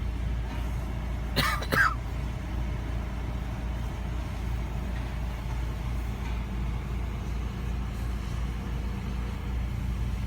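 Car engine idling steadily with a low hum, the car stopped in a queue. A short, sharp higher sound cuts in briefly about a second and a half in.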